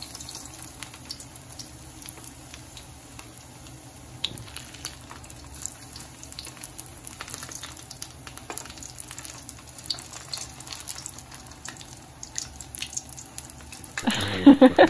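Maruya batter on a banana leaf frying in hot oil in a wok, with a steady sizzle and fine crackling. A louder burst of sound comes near the end.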